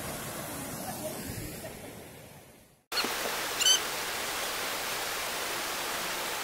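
Steady rushing of falling and flowing water, which fades away, then after a cut comes back louder and brighter. A short high chirp sounds about halfway through.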